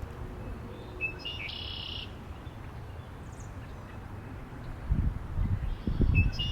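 A songbird calls twice, about five seconds apart: each call is a short high note run straight into a buzzy trill under a second long. From about five seconds in, gusts of wind buffet the microphone in low, uneven rumbles that become the loudest sound.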